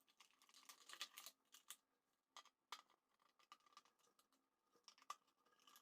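Near silence with faint, scattered small clicks and taps, about a dozen in all, as electrical wires are handled and connected at terminals.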